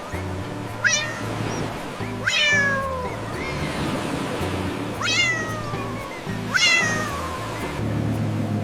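A cat meowing four times, each call jumping up and then sliding down in pitch, over background music with a steady low bass line.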